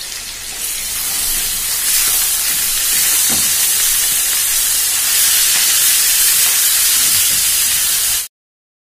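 Lamb pieces, lamb tail fat and onions sizzling loudly in hot oil in a frying pan while being stirred with a spatula; the sizzle cuts off suddenly near the end.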